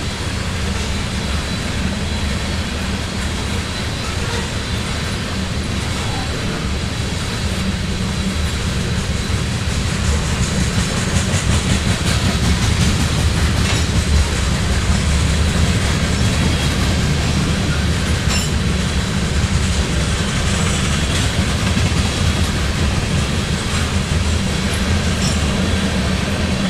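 Freight train of covered hopper cars rolling past at speed: a steady deep rumble of steel wheels on the rails, with scattered clicks as the wheels cross the rail joints. It grows a little louder about ten seconds in.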